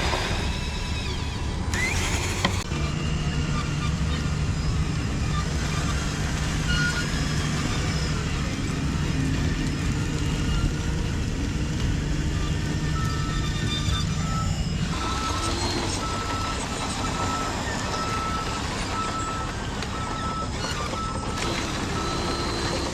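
Radio-controlled construction machinery running, with a steady motor and gear noise. About halfway through, a reversing beeper starts sounding about twice a second.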